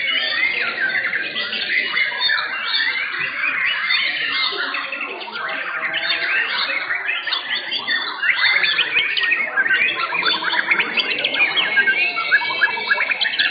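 Several white-rumped shamas singing at once, a dense, unbroken tangle of rapid whistles and chirps.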